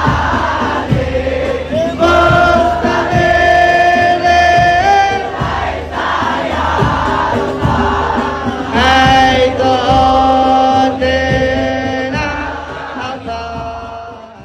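Amplified sholawat singing: a male-led group holds long sung notes that slide between pitches, over low drum beats. It fades out near the end.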